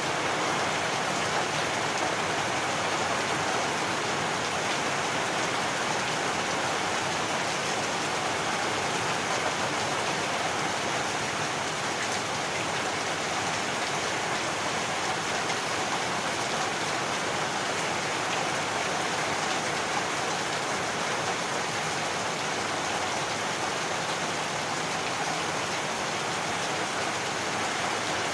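Heavy rain falling steadily, a continuous even hiss of rain on surfaces with no thunder heard.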